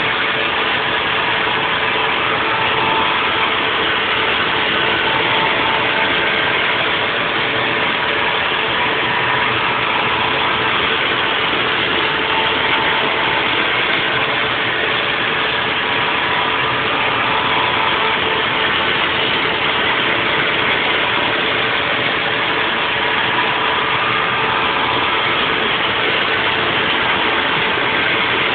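Haas VF4 CNC vertical mill cutting a block in a 3D milling program: continuous, even machining noise with a steady hum through it.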